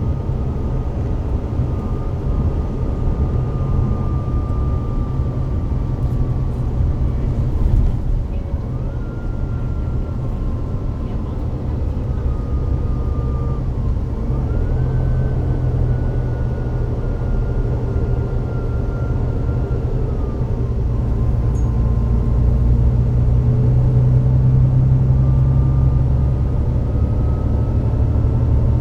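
Volvo B9TL double-decker bus's Volvo D9B diesel engine running with a low rumble, while the Voith DIWA automatic gearbox whines. The high whine slowly sags in pitch and jumps up at about nine and fifteen seconds in.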